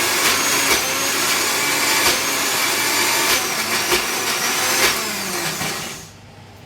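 Electric mixer grinder (mixie) running, grinding the masala ingredients, with a whine over the motor noise. About five seconds in it is switched off and winds down to a stop.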